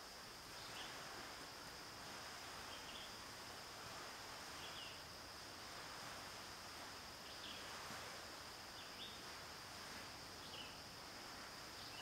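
Forest morning ambience: a bird giving short, high call notes about every one to two seconds, over a steady high-pitched insect drone and a soft background hiss.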